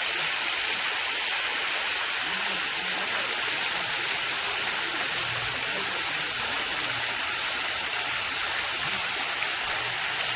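Gugok Falls, a waterfall, pouring steadily: an even rushing hiss with no breaks.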